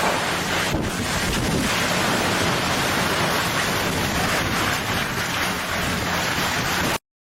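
Steady rushing noise of storm weather, wind and water, cutting off abruptly about seven seconds in.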